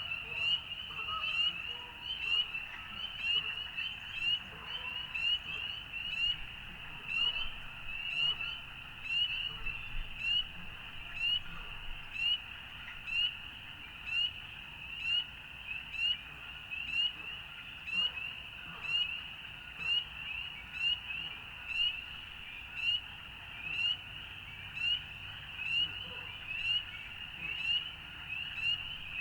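Chorus of frogs calling continuously: many high-pitched, short rising peeps overlapping in a steady, pulsing rhythm.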